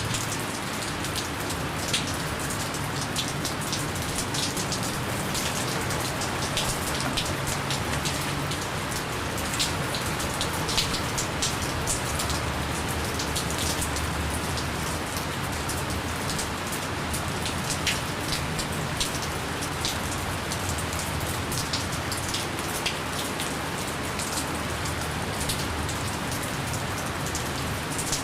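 Gentle steady rain falling on a surface: an even hiss with scattered individual drops ticking through it, with no thunder.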